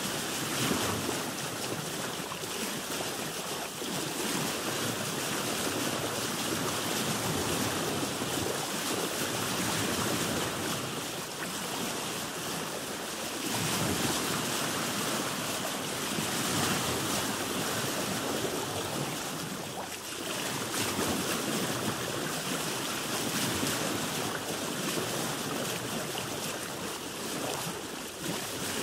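Sea water washing and slapping against a boat's hull, in a continuous wash that swells and ebbs every few seconds as waves pass, with some wind.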